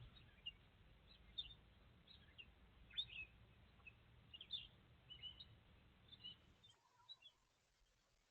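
Faint, scattered bird chirps picked up through a video doorbell's microphone, over a low hum that drops out near the end.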